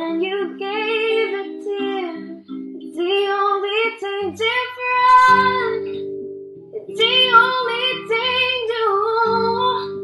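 A woman singing a slow melody with long held notes, in phrases with short breaks between them, over plucked acoustic guitar.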